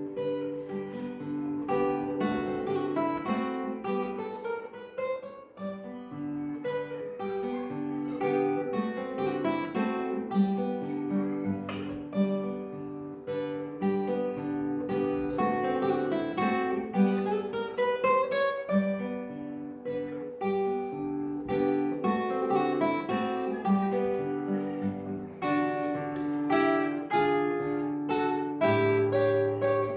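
Acoustic guitar playing a waltz: plucked melody notes over bass notes, with quick rising runs of notes near the middle.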